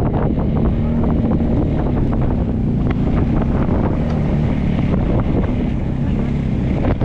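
Motorcycle engine running steadily while riding, with wind buffeting the microphone and frequent short knocks and rattles.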